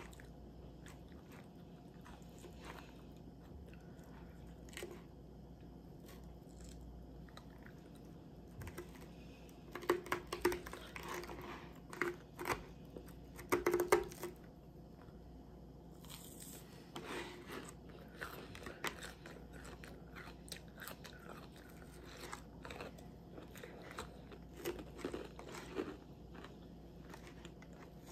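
Close-up chewing and crunching of a mouthful of salad, with short crisp crunches throughout and a louder run of bites between about 10 and 14 seconds in.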